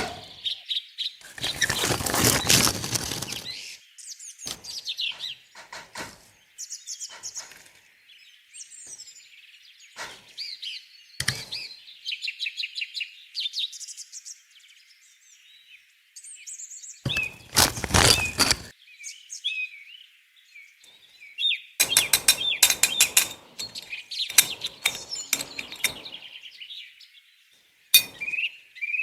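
Small birds chirping and twittering, interrupted several times by clusters of sharp clicks and clattering knocks.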